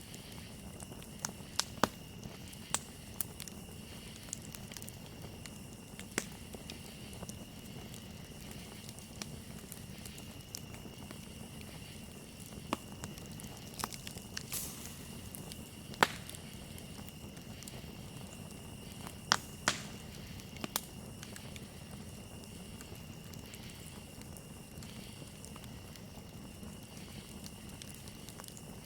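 Campfire crackling, with irregular sharp pops and snaps of burning wood over a steady low hiss of the flames; the loudest pops come about two seconds in, around the middle and a few seconds later. A steady high trill of crickets runs beneath.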